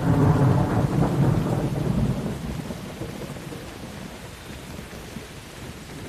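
Thunder rolling over steady rain: a loud low rumble swells right at the start, holds for about two seconds and dies away, while the rain hisses on throughout.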